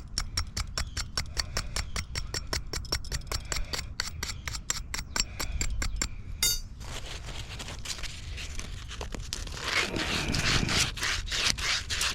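Wire fitting brush scrubbing a street fitting clean, quick regular strokes about five a second, then a short metallic ring about six seconds in. The scraping that follows is more continuous and grows denser near the end.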